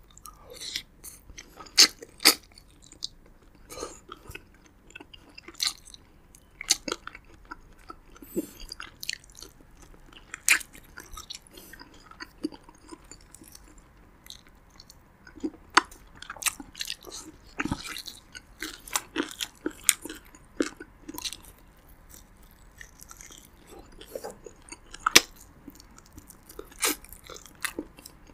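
Chewing a mouthful of roasted pigeon meat and rice, with many irregular sharp mouth clicks and smacks picked up close to the microphone.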